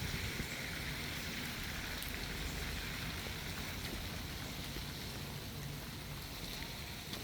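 Steady rain falling: an even hiss with a few faint drop ticks and a low steady rumble beneath.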